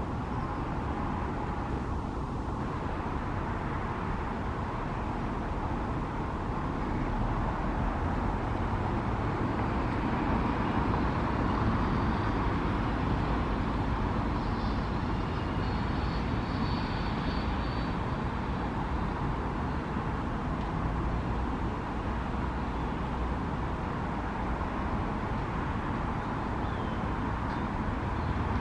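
Steady hum of distant traffic, growing a little louder for several seconds in the middle before easing off again.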